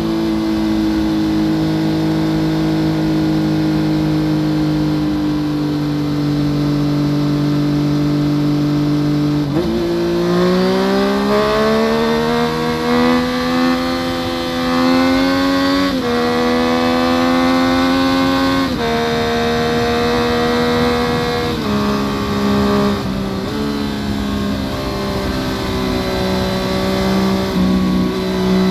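Yamaha FZ-09's inline-three engine through an Akrapovic full exhaust system, recorded from under the seat while riding. It holds a steady pace for about ten seconds, then accelerates with its pitch climbing, dropping briefly at three upshifts, and settles into a steady cruise near the end.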